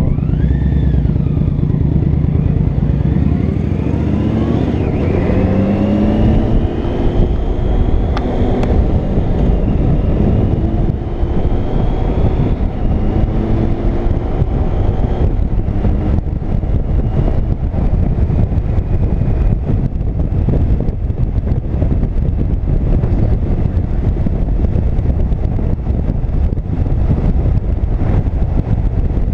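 Touring motorcycle on the road, its engine pitch climbing over the first several seconds as it speeds up, then cruising steadily under a heavy rush of wind noise.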